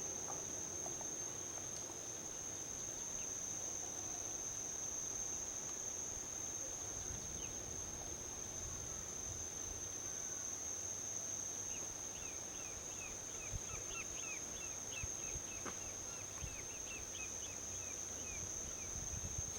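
Steady high-pitched trill of crickets over a low, even rumble of distant highway traffic. From about twelve seconds in, a quick run of short, high chirps repeats for several seconds.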